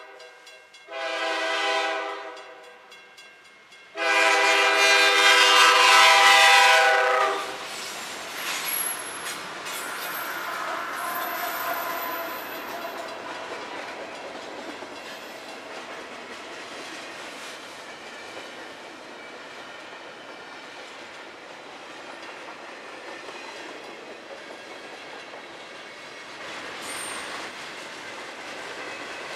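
Diesel locomotive's multi-chime air horn sounding for a grade crossing: a short blast about a second in, then a long, loud blast from about four to seven and a half seconds. Then a freight train rolls past with a steady clickety-clack of wheels over the rails, quieter than the horn.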